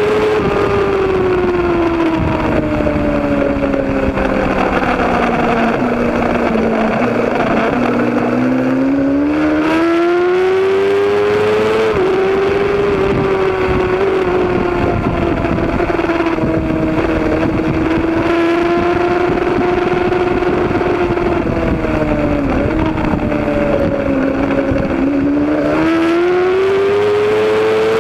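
Suzuki GSX-R racing motorcycle engine running hard and continuously at high revs. Its pitch sinks for several seconds, climbs again about twelve seconds in, holds for a while, dips, and climbs once more near the end, over a steady rush of noise.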